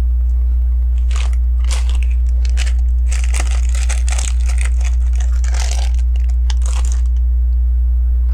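Crinkling and rustling of a plastic LEGO parts bag, with small plastic clicks of bricks being handled, over a steady low electrical hum. The crinkling is densest in the middle few seconds.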